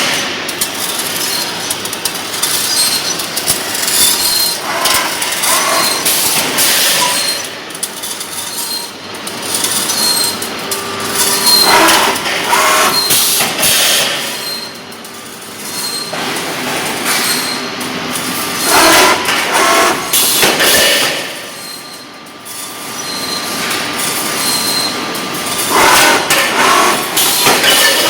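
Drywall profile roll-forming machine running, with a steady mechanical noise and a faint high whine. A louder metallic surge comes about every seven seconds.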